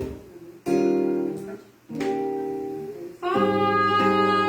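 Acoustic guitar playing the opening chords of a song, each chord ringing and dying away. About three seconds in, a long sustained note comes in over it.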